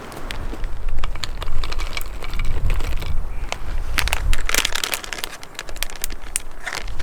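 Irregular crackling and crinkling, many small sharp clicks close together, over a low rumble.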